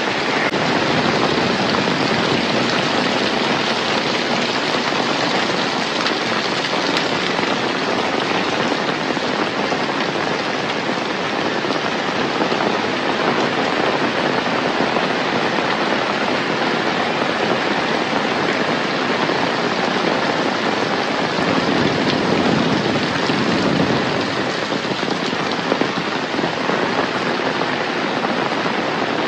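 Heavy rain falling steadily, an even hiss of downpour on surfaces. The lower part of the sound swells briefly about 22 seconds in.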